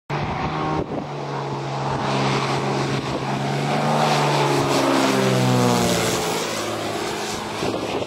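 Propeller aircraft engine running steadily, its tone sweeping up and down around the middle.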